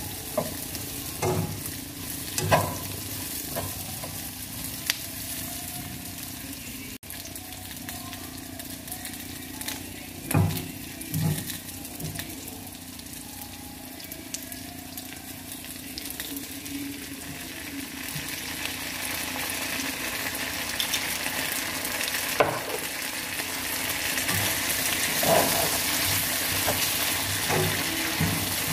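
Sausage pieces, onion rings and chilli sizzling in a non-stick wok as a spatula stirs them, with a few short knocks of the spatula against the pan. The sizzle grows louder over the second half, once chilli sauce is in the pan.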